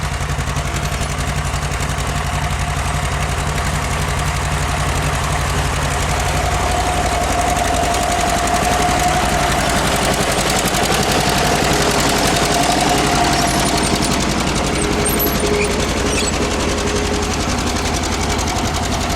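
1948 John Deere B's two-cylinder engine running steadily with its rapid, even exhaust popping, working hard pulling a two-bottom plow through wet clay in second gear.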